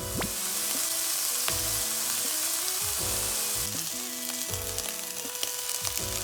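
Dense hissing and crackling of water churned by a waterfall, as heard underwater in a plunge pool, with background music playing over it.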